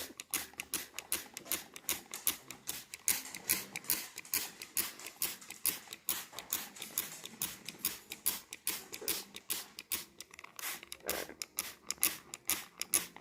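A hand spray bottle squeezed over and over, giving quick short squirts of mist, several a second in an irregular run.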